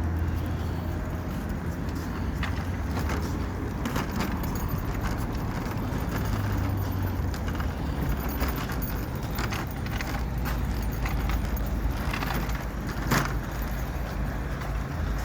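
Steady low hum of an idling vehicle engine, with scattered light clicks and rustles of items being handled.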